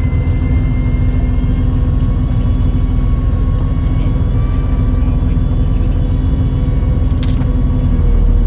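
Fishing boat's engine running with a steady low drone and a constant hum, with one short click about seven seconds in.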